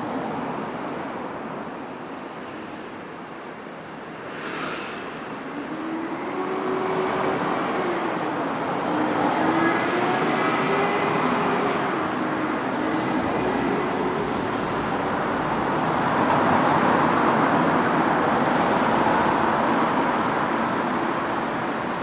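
Steady road traffic: the continuous tyre and engine noise of vehicles passing. A short hiss comes about four and a half seconds in, then the traffic swells louder as an engine passes with its pitch rising and falling.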